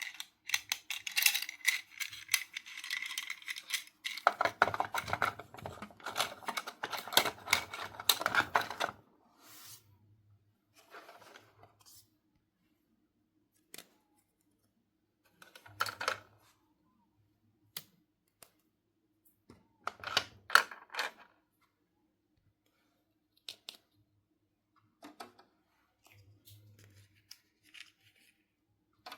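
Rustling and crinkling of toy packaging for about nine seconds, then scattered light clicks, taps and short rustles as small plastic toy pieces are handled.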